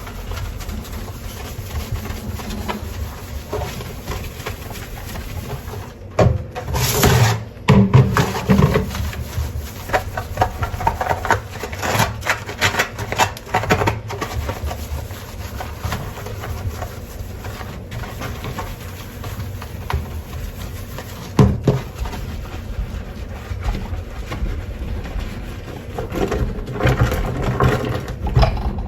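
Dishes being washed by hand in a sink: a steady rush of tap water with clinks and clatters of dishes and utensils. The clatter is busiest about six to nine seconds in, with one sharp knock a little past twenty seconds and more clatter near the end.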